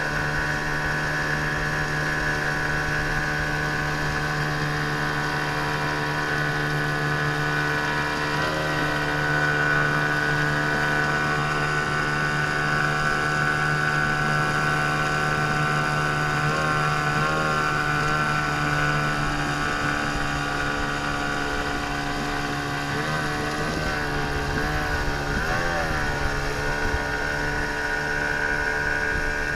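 A 15 hp outboard motor running steadily under way, its pitch wobbling briefly now and then.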